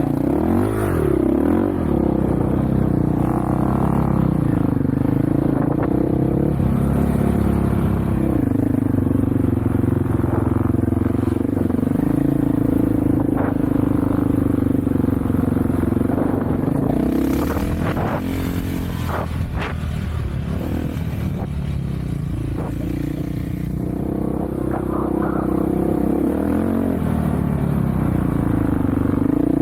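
Off-road vehicle engine running while riding, its pitch rising and falling as the throttle opens and closes. A few sharp knocks and rattles come about two-thirds of the way through.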